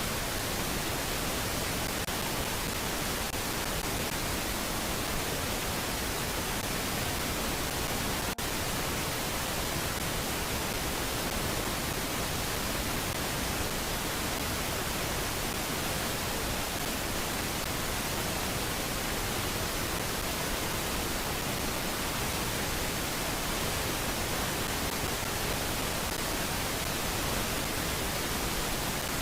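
Steady, even hiss like static, with a single faint click about eight seconds in.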